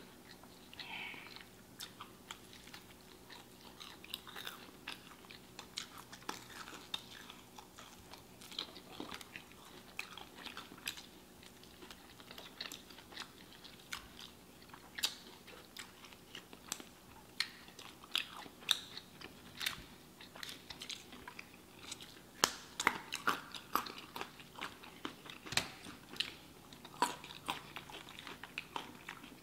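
Chewing and biting into crunchy fried chicken wings: frequent short crunches and mouth sounds, busier and louder in the second half.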